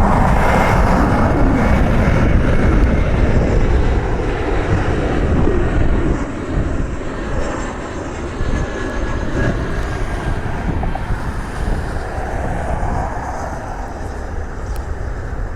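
Jet engines of an arriving Frontier Airlines Airbus airliner passing loud and close, then easing off after a few seconds as it moves away.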